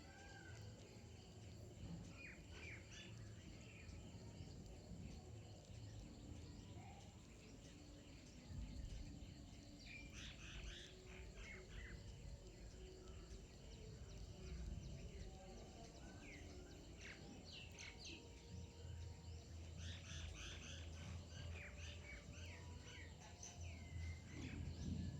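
Faint chirping of small birds, coming in short bursts of a few calls every several seconds, over a low steady background rumble.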